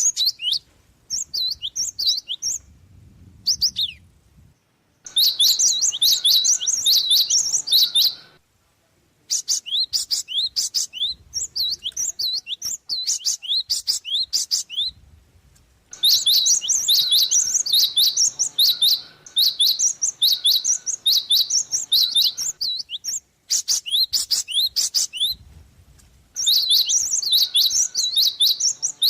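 Glatik (gelatik) songbird chirping in bursts of rapid, high notes, each burst lasting a few seconds with short gaps between them.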